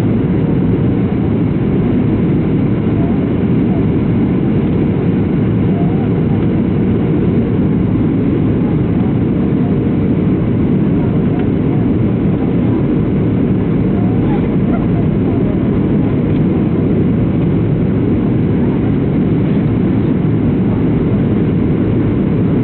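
Steady roar of engine and airflow noise inside the passenger cabin of a Boeing 737-700 airliner in flight, heard from a window seat, with a faint even hum running under it.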